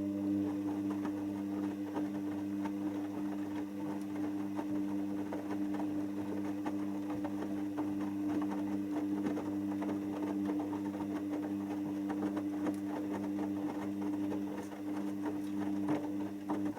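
Hoover DYN7144XD1 washing machine running: a steady low hum with a fast, dense crackle over it. It stops suddenly near the end.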